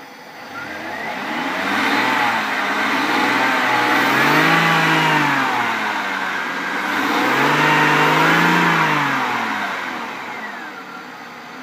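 Jaguar X300 4.0's straight-six engine revved slowly up and back down twice while running purely on petrol vapour, drawn from a homemade vapour system into the throttle body with the fuel pump disconnected.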